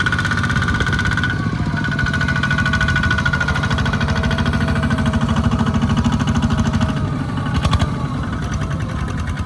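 Small tractor's engine running steadily with a rapid, even chugging beat, and a brief knock about eight seconds in.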